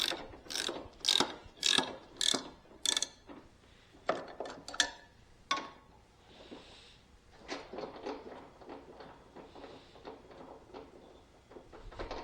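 Socket ratchet clicking in short, quick strokes, about two a second, as a nut is tightened on a zero-turn mower's lap-bar linkage to take out the play. After about three seconds the strokes stop and fainter scattered clicks and knocks of tool handling follow.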